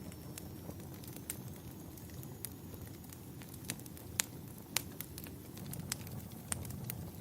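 Campfire burning: a steady low rush of flames with scattered sharp crackles and pops, the two loudest a little past halfway.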